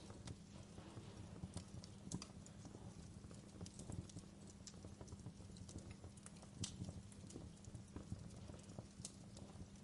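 Wood fire burning in a fireplace: a low steady rumble of the flames with irregular sharp crackles and pops from the burning logs, a few louder snaps among them.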